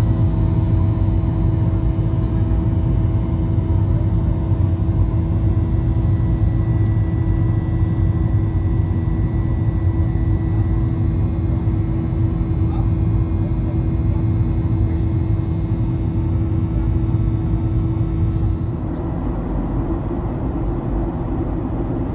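Steady, loud low rumble of a running vehicle with a constant hum over it; about nineteen seconds in the hum drops out and the rumble carries on a little quieter.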